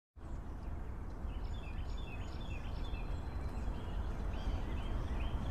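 Birds chirping in short repeated calls, in two bouts, over a steady low background rumble.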